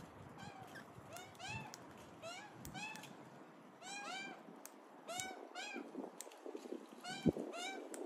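A bird calling over and over in short notes that rise and fall in pitch, about two or three a second. In the second half these are joined by scattered clicks and crunches at the seed feeder, with one sharp knock about seven seconds in.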